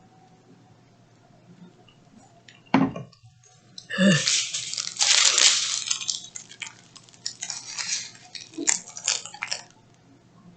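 A person coughing, two sharp coughs a little over a second apart, to clear a tickle in the throat. A breathy rush and a run of crackling and clicking follow.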